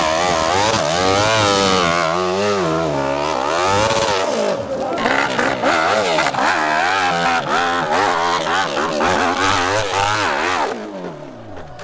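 Dirt bike engine revving hard, its pitch rising and falling rapidly and repeatedly as the throttle is worked, then dying away near the end.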